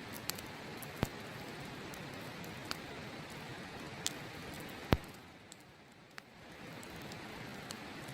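Open wood fire crackling, with a handful of sharp pops (the loudest about five seconds in), over the steady rush of a river. The rushing fades briefly just after the loudest pop, then returns.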